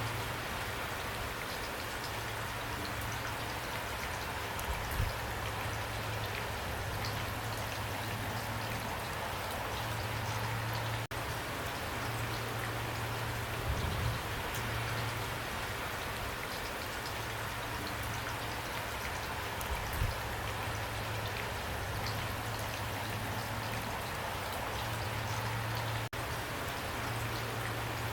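Steady pouring rain: a dense, even hiss of falling drops, with a few heavier low thuds of drops now and then.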